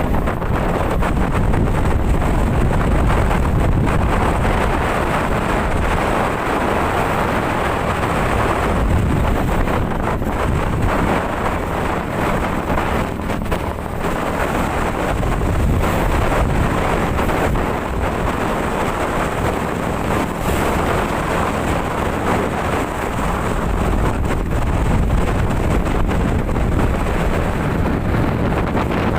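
Wind buffeting the microphone aboard a boat in rough water: a loud, steady low rumble that swells and eases without letting up.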